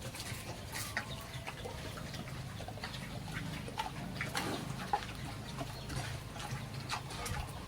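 Farm animals making scattered short calls, over a low steady hum.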